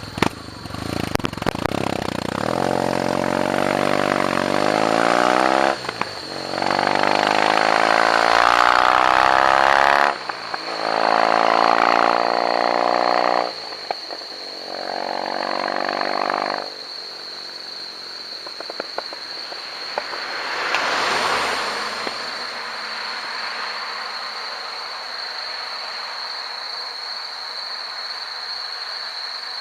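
Kawasaki W-series air-cooled parallel-twin motorcycle exhaust: the engine is revved four times, each rev climbing and held for a few seconds, then it settles back to a steady idle.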